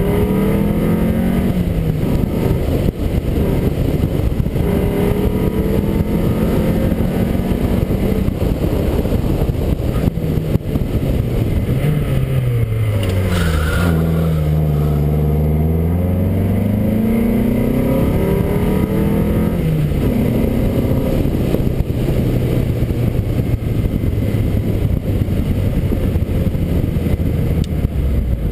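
Ford Escort RS 2000's four-cylinder engine driven hard, revs repeatedly climbing and dropping back through gear changes over steady road and wind noise. About halfway through the revs fall away low as the car slows for a bend, then climb again as it accelerates out.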